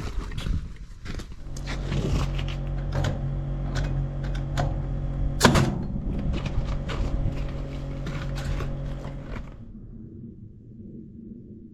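Framing work: a motor hums steadily under scattered knocks and clicks, with one sharp bang about five and a half seconds in. Near the end the sound turns dull and muffled.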